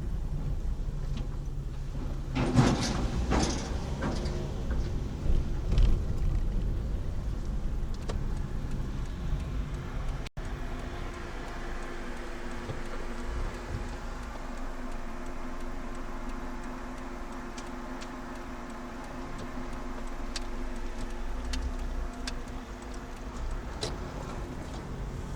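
Car driving, with steady road and engine rumble heard from inside the cabin and a louder passing rush about two and a half seconds in. After a cut, a steady hum with several held tones runs over the rumble.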